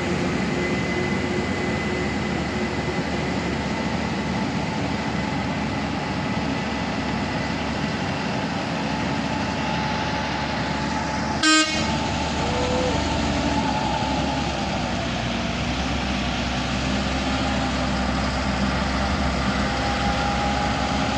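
Truck engines running steadily on the climb, with one short, loud horn toot about halfway through.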